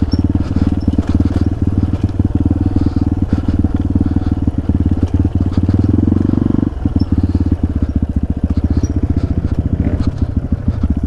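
Dirt bike engine running at a steady low speed, with a brief rise around six seconds in that eases off suddenly.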